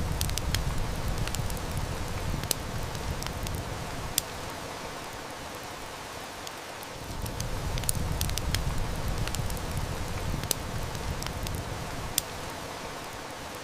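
Steady hiss of heavy rain with a wood fire crackling, its snaps coming as sharp, irregular pops. A low rumble swells for a few seconds at the start and again about seven seconds in.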